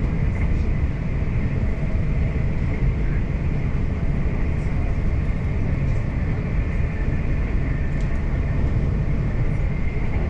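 South Western Railway electric train running along the line: a steady rumble of wheels on rail with a faint high steady whine and a few light clicks.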